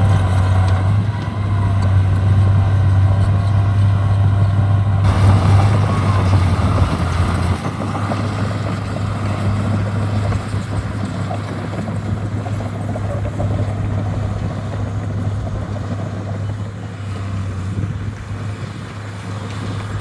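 Heavy diesel earthmoving machinery running with a steady low engine hum. The sound shifts about five seconds in and gets somewhat quieter about seven and a half seconds in.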